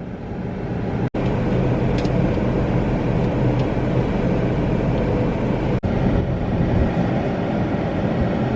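Steady noise of an automatic car wash and the waiting car, heard from inside the car's cabin, building up over the first second and broken by two very short dropouts.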